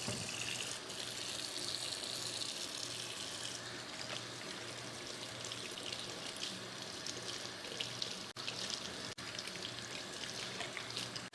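Water running steadily from a kitchen tap into a sink, a continuous hiss with small splashing ticks.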